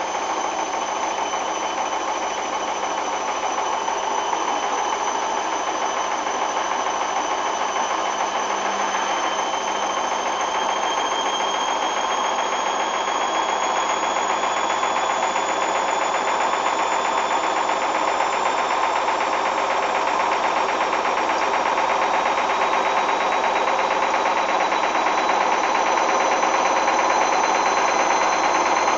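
Hoover washing machine spinning up, its motor whine rising slowly in pitch and the level creeping up, over a steady rumbling churn. The uploader says the load is very unbalanced on this final spin.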